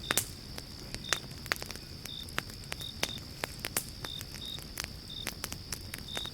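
Pine-log campfire crackling, with frequent sharp pops at irregular intervals. Under it runs a steady high hiss, with short high chirps every second or so.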